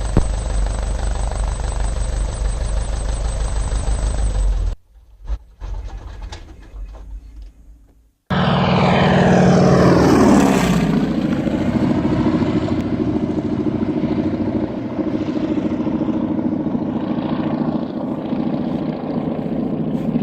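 Propeller aircraft engine noise in edited segments: a steady low engine drone with a thin high whine, a short quieter stretch with a few clicks, then a propeller plane passing close with its pitch falling steeply, settling into a steady engine drone.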